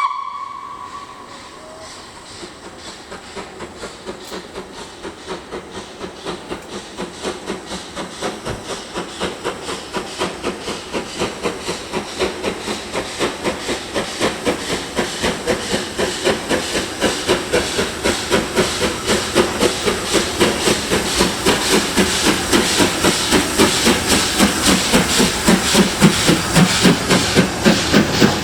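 Steam locomotive working, its exhaust beats coming steadily faster and louder as the engine gathers speed and draws nearer. A whistle note fades out in the first second.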